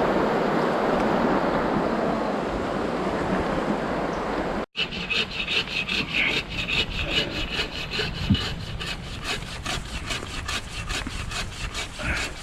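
Rushing noise of water and wind. After an abrupt cut, a fast rhythmic scraping follows at about four strokes a second.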